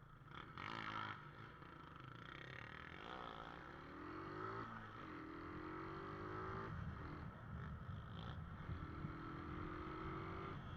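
Motorcycle engine accelerating through the gears: the engine note climbs, drops back at a gear change about halfway through and again a couple of seconds later, then climbs slowly again, over a steady low rumble.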